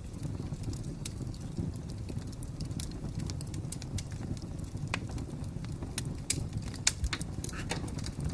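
Fire crackling: a low steady rumble with irregular sharp pops and snaps, a few louder ones about two thirds of the way through.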